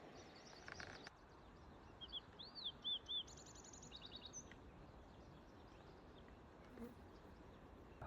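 A small bird singing: a few high chirps, then several short whistled notes and a quick trill in the first half, over a faint background hiss.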